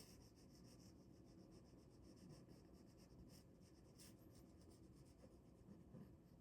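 Ballpoint pen writing on paper: faint, quick scratching strokes, with a slightly stronger stroke about four seconds in.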